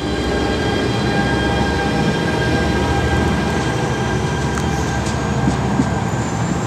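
Train running close by the platform: a loud, steady rumble with a constant whine, and a faint high squeal that rises slightly near the end.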